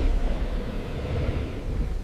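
Deep, noisy rumble with a hiss above it, slowly fading.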